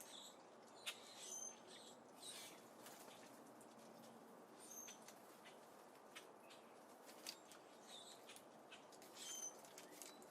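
Small birds at a seed feeder giving short, faint chirps every second or two, with a couple of sharp clicks among them.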